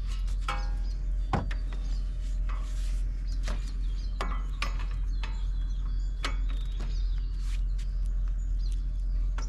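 Scattered clicks and knocks of a torque wrench being worked on a wheel hub assembly's mounting nuts, tightening them to 133 foot-pounds. A steady low hum runs underneath.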